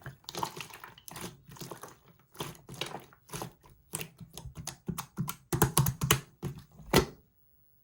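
Clear slime being squeezed and poked by hand: a quick, irregular run of wet clicks and pops that cuts off about seven seconds in.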